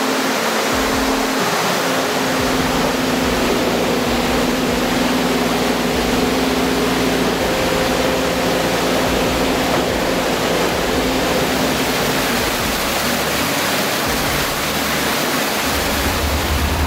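Heavy haul truck engines running steadily under load: a steady low hum beneath a loud, even rushing noise. The hum fades about two-thirds of the way in.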